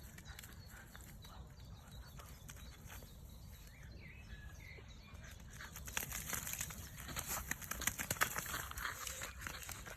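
Tibetan Terrier puppy splashing and squelching in a mud puddle: a run of wet slaps and splashes, sparse at first and much busier in the second half.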